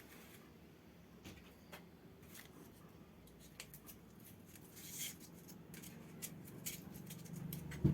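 Faint, scattered clicks and short scrapes of cardboard being handled and worked by hand, a little louder about five seconds in.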